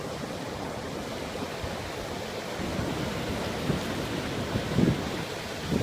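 Pacific Ocean surf washing on the beach, a steady rush that builds a little about halfway through, with some wind on the microphone.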